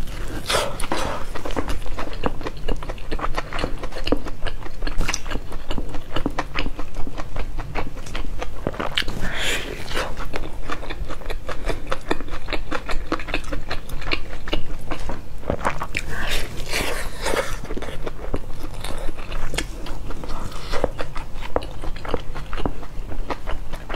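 Close-miked biting and chewing of a pan-fried flatbread stuffed with greens: a steady run of many small clicks and wet mouth sounds, with a few louder bites.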